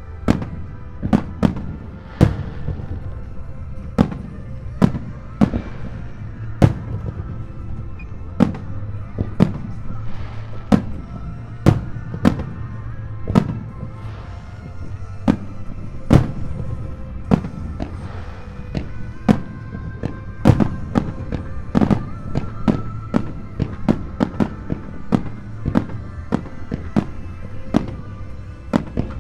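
Aerial fireworks shells bursting in rapid succession: sharp bangs about one to two a second, each followed by a short rumbling echo, over background music.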